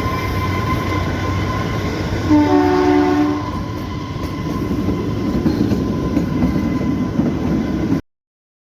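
Train running with steady rumble and rail noise; a train horn sounds once for about a second, about two seconds in. The sound cuts off abruptly near the end.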